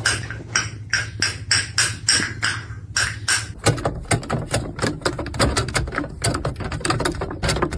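Rapid, irregular tapping or clicking, several sharp strokes a second.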